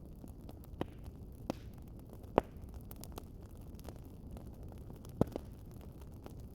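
Wood fire crackling: scattered sharp pops and snaps over a low, steady rumble, the loudest pop about a third of the way in and another strong one near the end.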